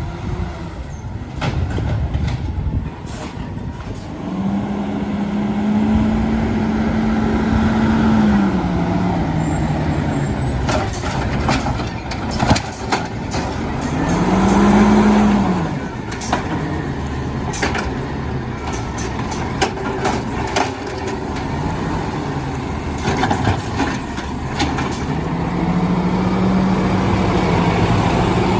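Mack LR CNG garbage truck with an Amrep automated side-loader: the engine revs up and holds for a few seconds, then drops back, three times, as it drives the hydraulic arm. Sharp knocks and clanks come between the revs.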